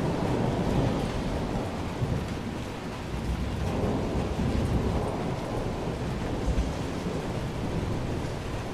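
Steady rain with low, rolling thunder rumbling underneath, a recorded thunderstorm track.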